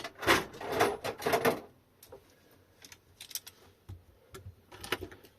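Metal parts of an opened e-bike hub motor clattering and scraping as they are handled, loudest in the first second and a half, then scattered light clicks and taps with a sharper cluster near the end. This is the slipped inner piece that carries the hall-sensor magnets being shifted back into line.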